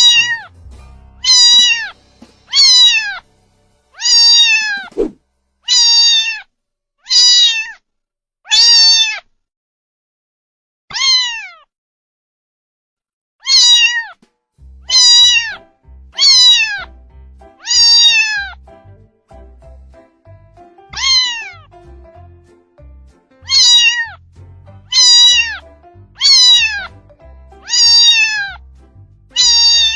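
Kitten meowing over and over: high, short meows, each falling in pitch, about one every second and a half, with a couple of longer pauses.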